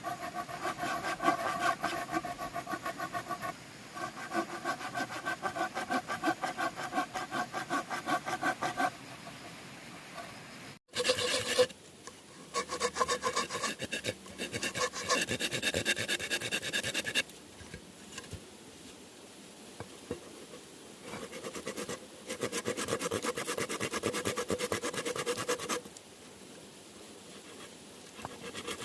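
Bamboo being cut with a hand saw: fast rasping strokes with a ringing tone from the bamboo, in several runs of a few seconds with pauses between.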